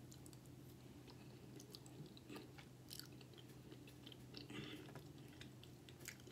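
Close-miked chewing of a mouthful of bacon ranch cheese fries: faint scattered mouth clicks and smacks, over a steady low hum.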